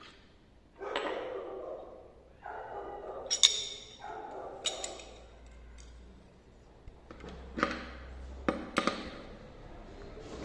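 Metal router bit and router collet parts handled, giving light metallic clinks and taps with a few sharp clicks, the sharpest about three and a half seconds in and a cluster near the end.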